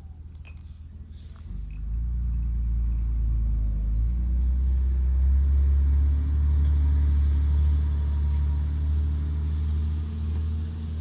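A motor vehicle's engine running close by, a low steady rumble that starts about a second and a half in and grows louder over the next few seconds.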